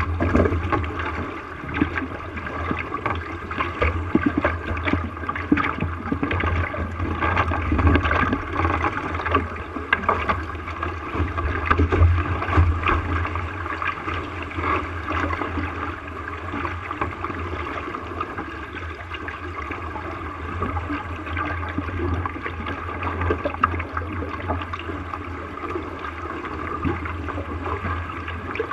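Water splashing and rushing along the hull of a small sailboat under way, with irregular slaps over a steady low rumble.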